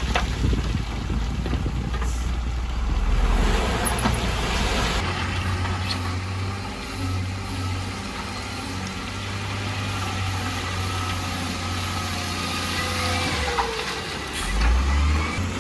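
Engines of heavy road-construction machinery running steadily, the engine note changing about five seconds in.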